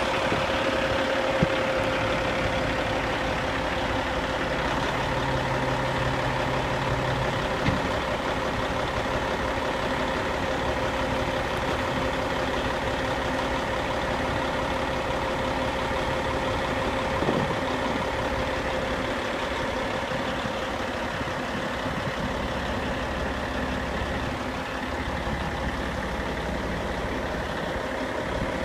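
Dump truck's Cat 3406E diesel engine running steadily while the hydraulic hoist raises the dump box, with a couple of light clicks.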